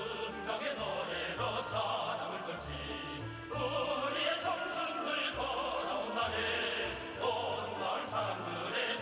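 Orchestral music with voices singing in an operatic style, over a bass line that changes note every second or so.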